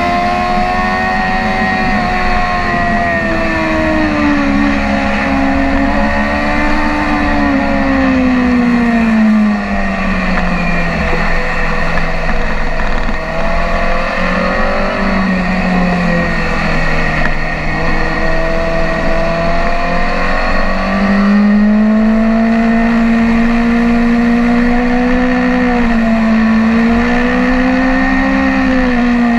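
BMW S1000RR inline-four sportbike engine at track speed, heard on board. Its pitch falls about a third of the way in, stays lower for a long stretch, then climbs again a little past two-thirds and holds high with small rises and dips as the throttle and gears change.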